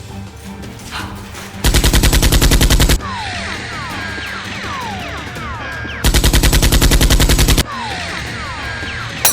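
Two bursts of rapid machine-gun fire, each over a second long, starting about two seconds in and again about six seconds in. Between and after them comes a run of short zaps falling in pitch, over background music.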